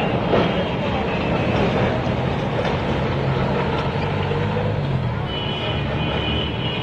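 Vehicle engine and street traffic noise, steady throughout, with a low engine tone rising out of it in the middle and a thin high tone near the end.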